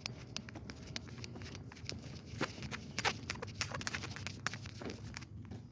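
Footsteps on a creekside path: irregular crunches and clicks of a person walking.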